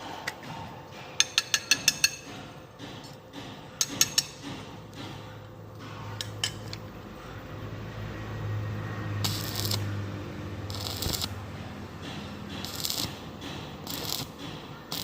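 Sharp clicks, a quick run of about six about a second in and a few more around four seconds, then several short scraping rasps over a faint low hum.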